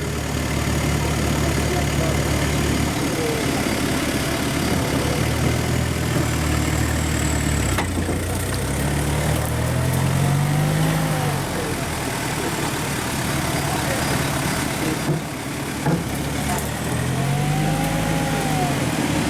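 Off-road 4x4 engine running steadily under load, then revved twice, the pitch swelling up and falling back each time.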